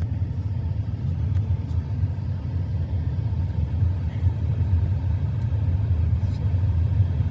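Steady low road rumble of a vehicle driving.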